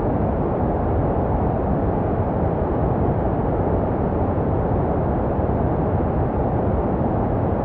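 Continuous white noise for soothing a baby to sleep, made to resemble the sounds heard in the womb. It is a steady, even rush, deep and muffled, with little above the middle range.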